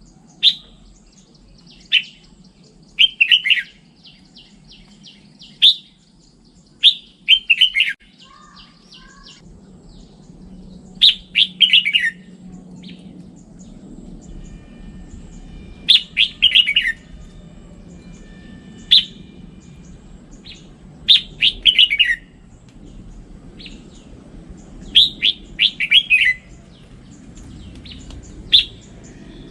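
Red-whiskered bulbul singing: short, bright warbled phrases, repeated every second or two, over a faint low background rumble.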